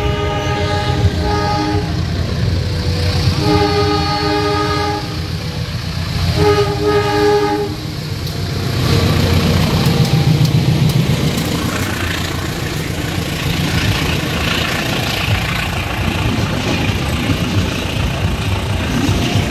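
A locomotive's multi-tone horn sounds three times, about a second and a half each, as it approaches. Then the passenger train passes close by, a heavy low rumble loudest about ten seconds in, giving way to the steady running noise of the coaches' wheels on the rails.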